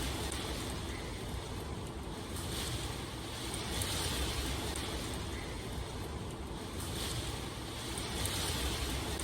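Steady rushing ambience of water and wind with a low rumble underneath, swelling and easing every two seconds or so.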